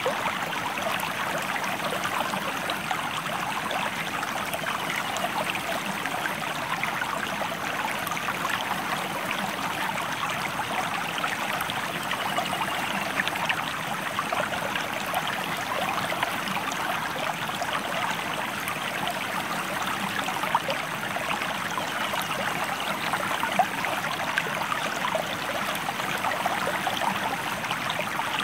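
River or stream water flowing over rocks: a steady, unbroken rush of water.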